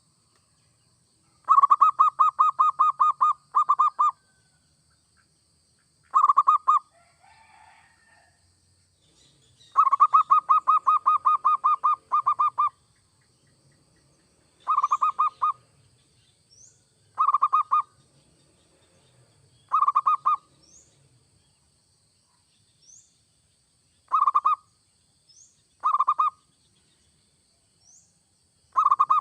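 Zebra dove (perkutut) cooing in bursts of rapid, evenly spaced notes. There are two long runs about a second and a half in and around ten seconds in, then shorter bursts every two to three seconds. Faint short high chirps recur in the background during the second half.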